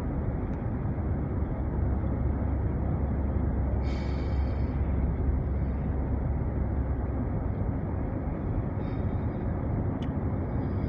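Steady road and engine noise inside a moving car's cabin, heavy in the low end.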